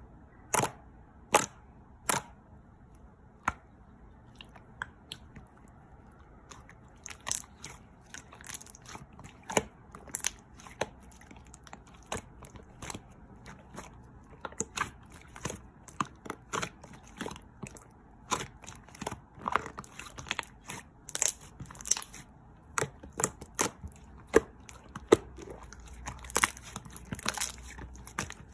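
Slime being pressed and squished by hand, giving sharp irregular clicks and pops, a few at first and coming quickly, several a second, from several seconds in.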